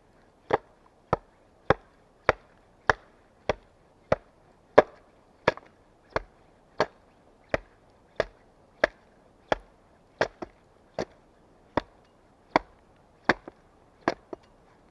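Wood being chopped with an axe: about twenty sharp strikes at a steady pace of roughly one and a half a second, with a few quick double strikes in the second half.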